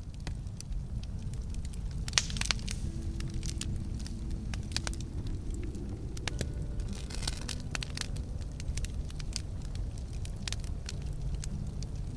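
Campfire crackling and popping: irregular sharp snaps over a steady low rumble, with the loudest pop about two seconds in and a brief hiss a few seconds later.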